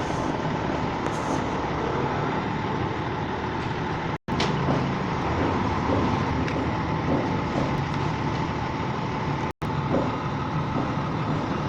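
Steady road-vehicle and engine noise, continuous throughout, with two split-second dropouts to silence, about four seconds in and again about two seconds before the end.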